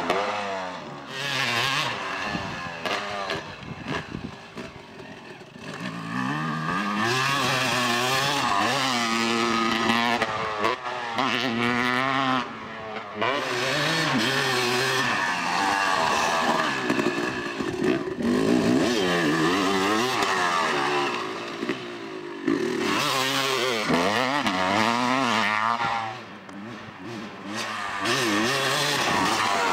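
Motocross dirt bike engine revving hard, its pitch climbing and dropping again and again as the rider works the throttle and gears around the track, fading briefly twice.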